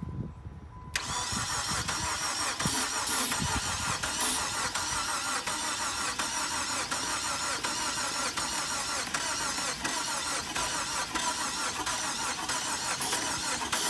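2005 Chrysler PT Cruiser turbo's engine being cranked by its starter, starting about a second in and turning over steadily with an even pulse without firing. The car will not start; its motor is said to be blown.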